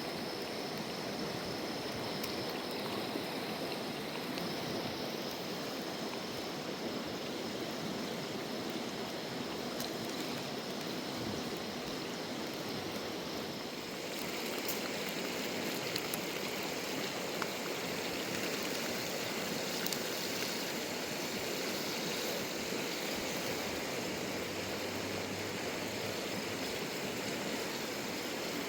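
A river flowing steadily, a continuous rush of water. About halfway through, the sound turns brighter and more hissy.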